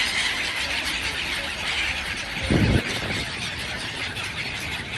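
A large flock of birds calling all at once, a dense, continuous high-pitched chatter, with a brief low thump about halfway through.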